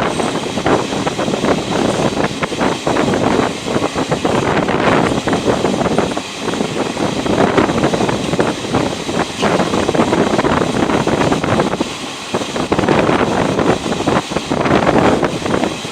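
Train running along the track, heard from on board: a loud, rattling rumble of wheels and carriages that swells and dips, with wind buffeting the microphone.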